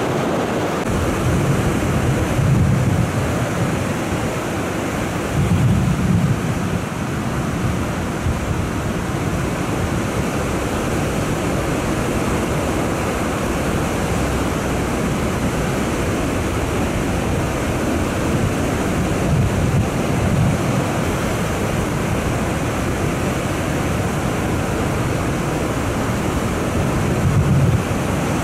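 Heavy surf breaking and rushing onshore in a strong wind, a steady loud rush, with wind buffeting the microphone in several low gusts.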